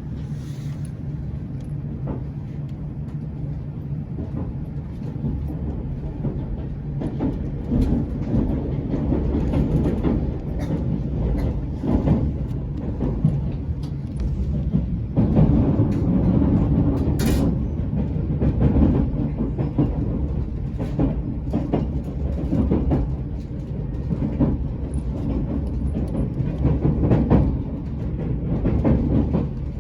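Passenger train running, heard from inside the car: a steady low rumble with wheel clicks over the rail joints, growing somewhat louder through the middle.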